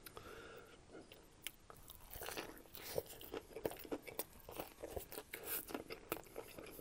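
Close-miked chewing of battered fried chicken, a copycat KFC Double Down: irregular crunching of the crispy coating with sharp wet mouth clicks, busier from about two seconds in.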